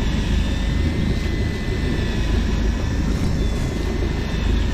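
Boat engine running steadily: a continuous low drone with a thin high whine above it.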